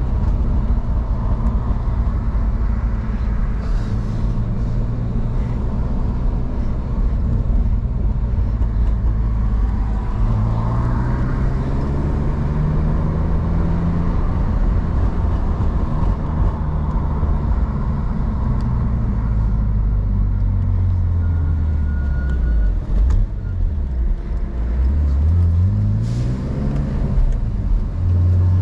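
BMW E46 engine running while the car is driven, its note rising and falling with throttle and gear changes over steady road noise, with a quick climb in revs near the end.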